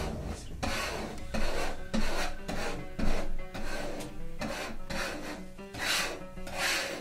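Repeated rasping, scraping strokes, irregularly every half second to a second, the strongest near the end, with faint music underneath.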